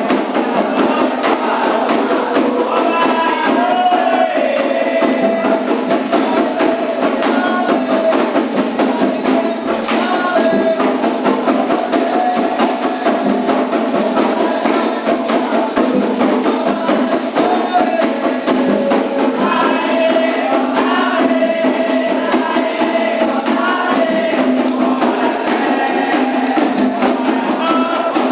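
Candomblé ritual music: a group singing a chant for the orixás over a fast, steady rhythm of atabaque hand drums and a struck agogô bell.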